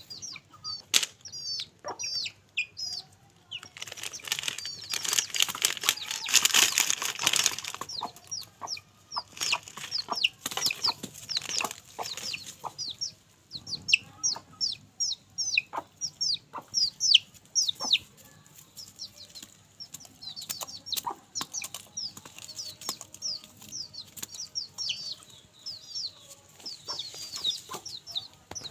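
Chicks cheeping rapidly and constantly, with scattered sharp pecking taps and a loud flurry of flapping wings about four to eight seconds in.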